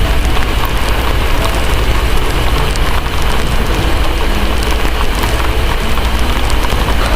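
Steady heavy rain, with a constant deep low rumble underneath and faint scattered ticks on top.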